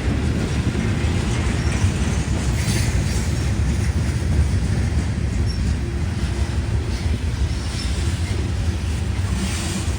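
CSX freight train's cars rolling past, a steady rumble of wheels on rail with brief high wheel squeals a couple of times.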